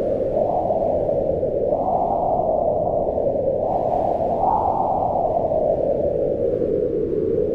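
Howling wind: a steady rushing noise whose pitch slowly rises and falls. It swells higher about two and four and a half seconds in, then sinks lower near the end.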